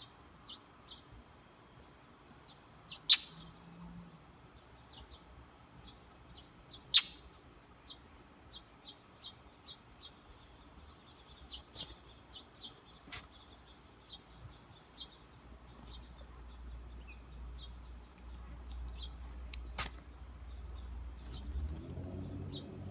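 A bird chirping: short, high chirps repeated many times. A few sharp clicks come through, two of them loud about 3 and 7 seconds in. A low rumble builds in the second half.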